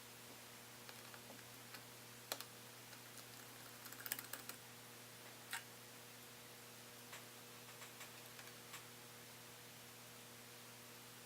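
Scattered light clicks and taps of a small screwdriver and tiny screws being handled inside a laptop, with a cluster of clicks about four seconds in, over a steady low electrical hum.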